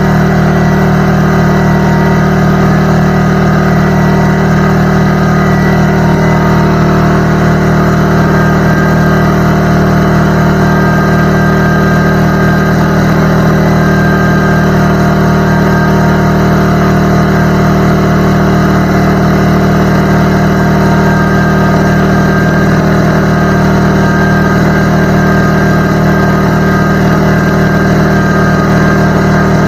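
McGraw 21-gallon electric air compressor running steadily under load, filling its tank.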